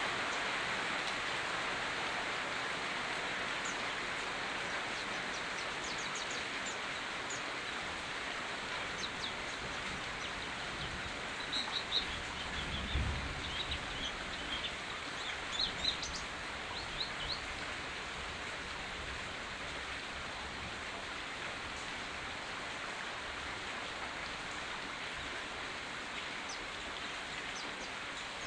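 Rain falling steadily, a constant hiss, with small birds chirping in short high calls through the middle stretch and a brief low thump about thirteen seconds in.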